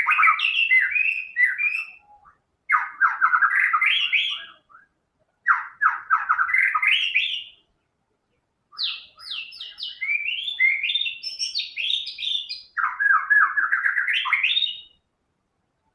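White-rumped shama singing in full voice: five bursts of quick repeated notes, most phrases rising in pitch, each lasting about two seconds with short pauses between them.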